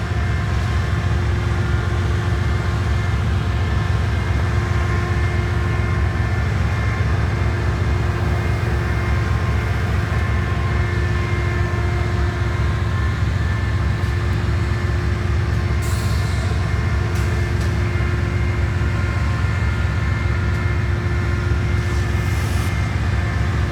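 Diesel-electric locomotive engine idling: a steady low rumble with a constant hum above it. A few short hisses come in about two-thirds of the way through and again near the end.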